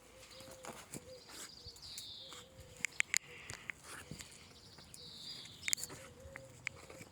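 Scattered knocks and scrapes of someone climbing down a tree one-handed, hands and shoes against the branches and trunk. A bird gives a short high falling call twice.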